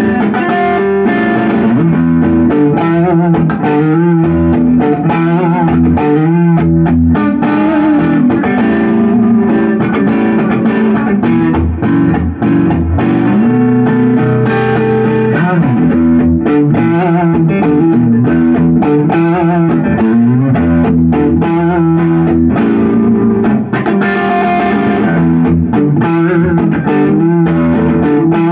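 Gibson SG '61 Reissue electric guitar played with distortion, a continuous run of chords and single notes.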